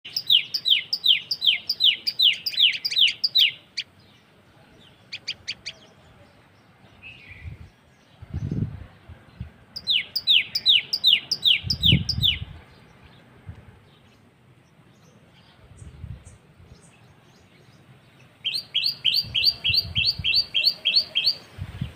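Common tailorbird calling: three runs of loud, rapidly repeated sharp notes, about four a second, each note sliding down in pitch, with a few fainter calls and some low muffled thumps in between.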